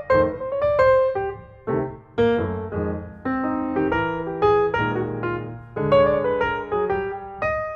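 Background music: solo piano playing a melody of struck notes and sustained chords.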